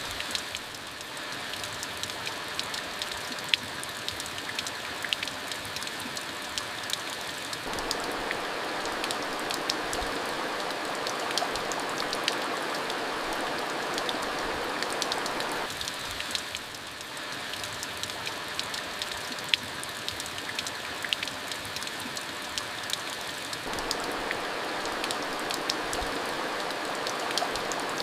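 Steady rain falling, an even hiss dotted with many sharp individual drop hits on a surface. It gets a little heavier about a third of the way in, then eases briefly around the middle.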